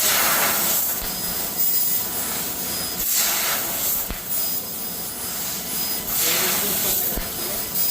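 CNC laser cutting machine cutting steel sheet: a steady hiss that swells into louder rushes every couple of seconds, with a faint high whine behind it.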